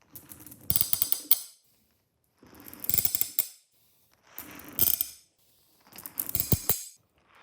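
Marbles rolling down a marble run and clattering as they land, in four separate runs of about a second and a half each with silence between, each ending in a cluster of sharp ringing clicks.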